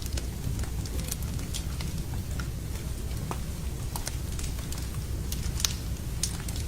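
Wood fire burning in a fireplace: a steady low rumble with scattered sharp crackles and pops, a few louder ones past the middle.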